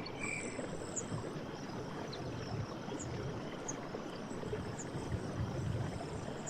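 Forest stream running steadily, with gurgling surges of water, while small birds give short high chirps every second or so. A thin high trill sounds for about a second near the start.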